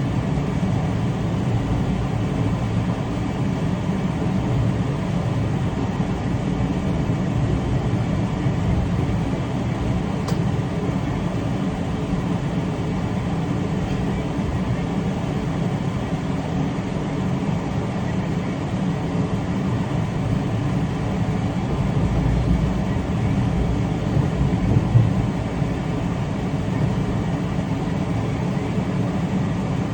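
Train running along the track, a steady low rumble of wheels and rails with a short louder knock about twenty-five seconds in.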